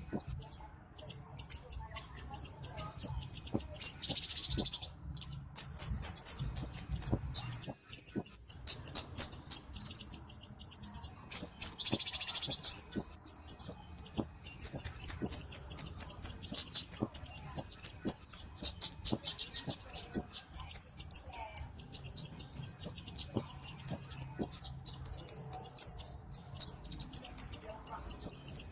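Flowerpecker (cabe-cabean) calling: long runs of rapid, very high, thin ticking notes, about eight a second, with short breaks between runs.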